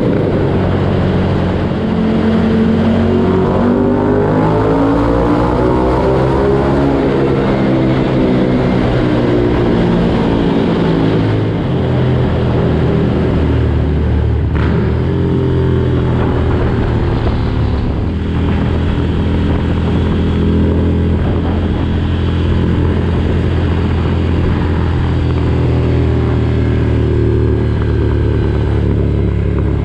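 2019 Ducati Desert Sled's air-cooled 803 cc L-twin running through a Competition Werkes aftermarket exhaust. The engine note rises and falls in pitch for about the first ten seconds, then settles into a steady low note.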